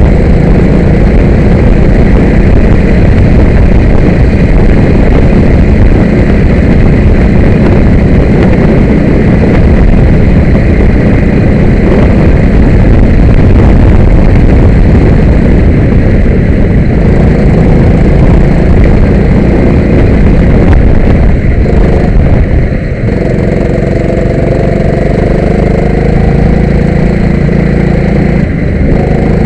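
Kart engine running hard, loud and close, easing off briefly about three-quarters of the way through and then climbing back up in pitch.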